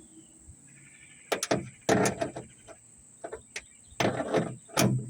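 Ratchet wrench with an 8 mm socket turning a trunk latch bolt, clicking in four short bursts of strokes.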